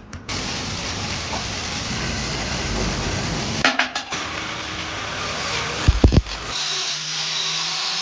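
Metalwork on a steel gas-cylinder stove: a steady hiss, broken by a few sharp metal knocks about four and six seconds in.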